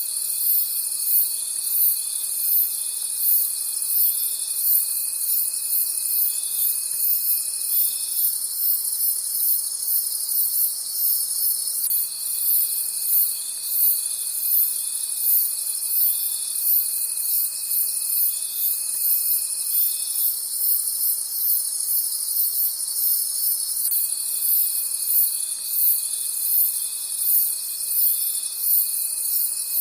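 Several crickets chirping together at night. One chirps high and rhythmically, about two to three chirps a second, over a steady high trill. A lower continuous trill drops out twice for a few seconds and then resumes.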